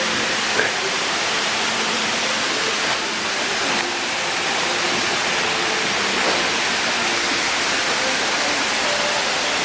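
Steady rushing noise, like falling water, with faint steady tones underneath.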